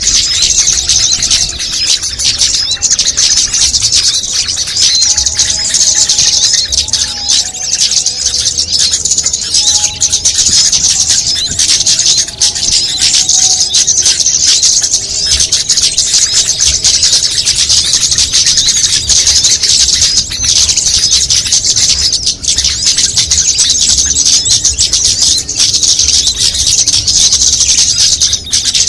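Small songbirds in a mixed bird-lure recording chattering and chirping densely and without a break, a loud high-pitched twittering, with faint lower whistled notes in the first half.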